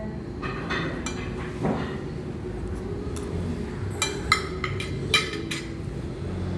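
Cutlery and dishes clinking at a meal: a string of short clinks, most of them bunched together after about four seconds, over a steady low background hum.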